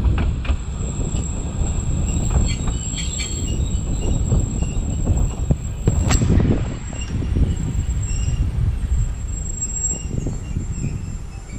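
Narrow-gauge (760 mm) passenger carriage rolling along the track: a steady low rumble from the wheels, with clicks over rail joints, a sharper click about six seconds in, and short high squeals from the wheels.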